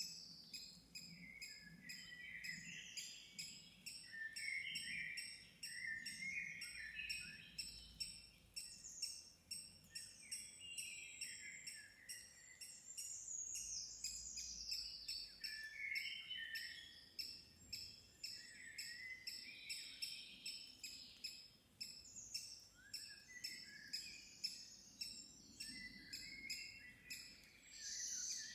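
Several songbirds singing at once, their varied phrases overlapping without a break.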